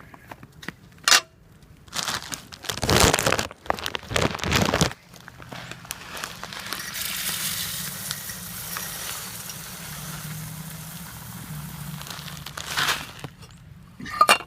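Birdseed being filled into a bird feeder: rustling, crunching handling noises and a sharp click in the first few seconds, then a steady rushing hiss of seed pouring for about seven seconds.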